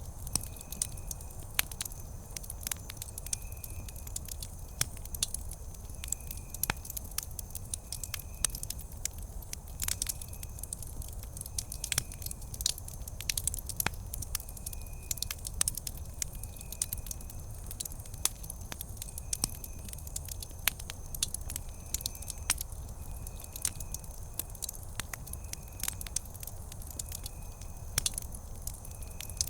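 Wood campfire crackling: frequent sharp pops and snaps of irregular strength over a steady low noise from the fire. A faint, short, high chirp repeats every couple of seconds.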